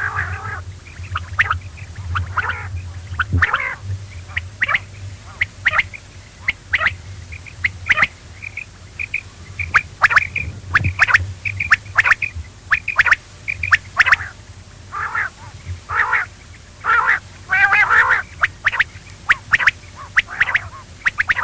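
Quail calling: a rapid run of short, sharp chirping calls repeated over and over, with a low hum under the first few seconds.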